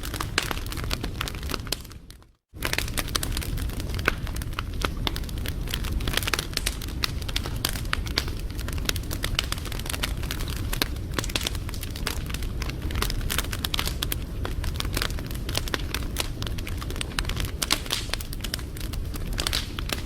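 Wood fire crackling and popping over a low steady rumble, with many irregular snaps. The sound fades out for about half a second around two seconds in, then resumes.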